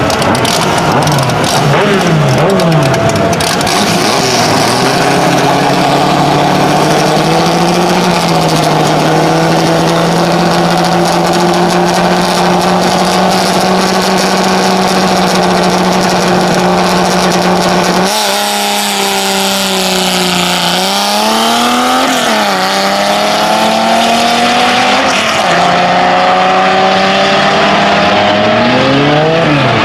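Dodge Polara race car engine running hard: the revs swing at first, then hold one steady note for over ten seconds. After an abrupt change about 18 seconds in, the revs rise and drop several times, as in gear changes and lifts.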